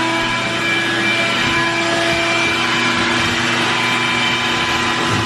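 Vacuum cleaner motor running steadily at full speed with a constant hum and whine, picking up loose styrofoam crumbs.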